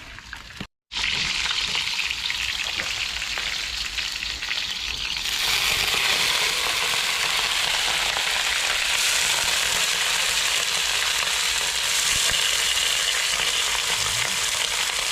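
Fish frying in hot oil in a pan: a steady sizzle that grows louder about five seconds in.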